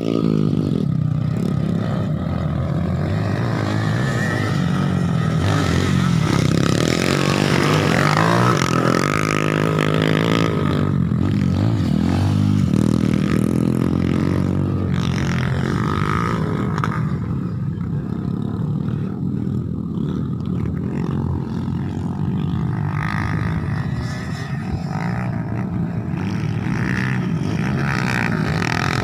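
Dirt bike engines running, revving up and down between about five and thirteen seconds in, then running more steadily.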